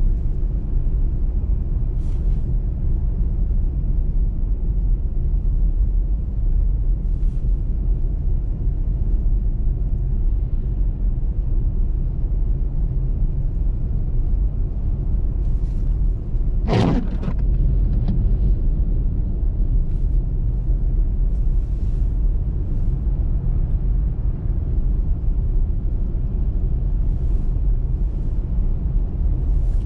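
Steady low rumble of a car driving at road speed: tyre, road and engine noise. A little past halfway there is one short, sharp sound that drops quickly in pitch.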